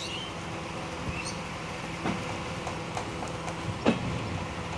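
Bangladesh Railway passenger train running slowly, heard from an open coach window: a steady rumble of wheels on the track, with two sharp louder clacks about two seconds in and just before four seconds.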